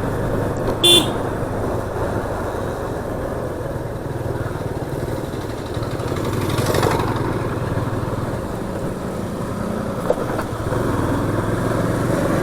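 Motorcycle riding on a road, the Yamaha FZS25's single-cylinder engine running steadily under wind and road noise. A short horn toot sounds about a second in, and the noise swells briefly midway.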